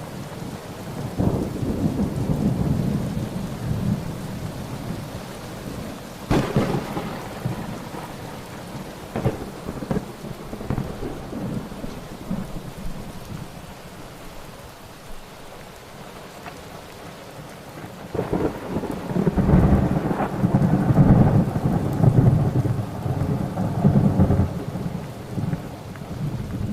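Thunderstorm with steady rain and rolling thunder: a rumble early on, a sharp crack about six seconds in, and a longer, louder roll of thunder in the last third.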